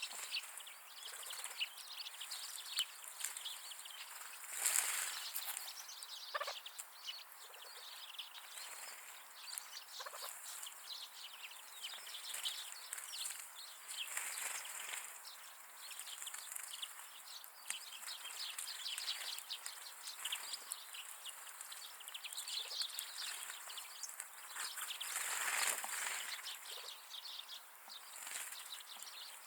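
A flock of grey partridges calling, short harsh notes overlapping throughout, louder about five seconds in and again near the end.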